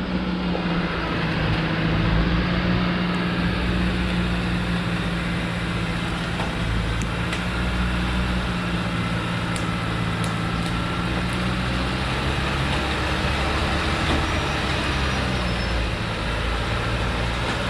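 Diesel engine of a Thaco truck loaded with acacia logs, running steadily with an even low drone.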